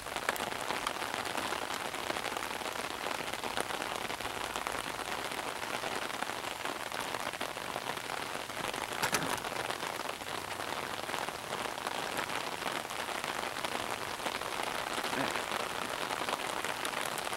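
Steady heavy rain, a dense even hiss of drops striking nearby surfaces, with one sharper tap about nine seconds in.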